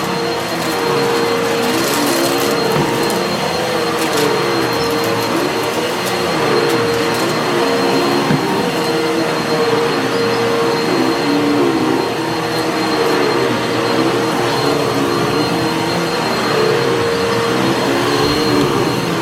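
Vacuum cleaner running steadily on carpet, its motor pitch dipping and recovering about once a second as it is pushed back and forth, with scattered crunching as grit left deep in the pile is picked up.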